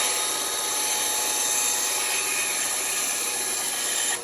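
Band saw cutting through a wooden workpiece, a steady sawing noise that stops suddenly near the end.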